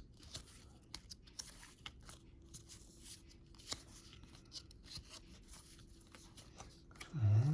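Cardboard trading cards being handled and sorted: a scattered run of small, faint clicks and rustles.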